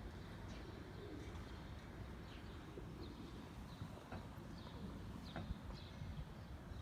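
Small birds chirping: short, high chirps scattered irregularly, over a steady low background hum.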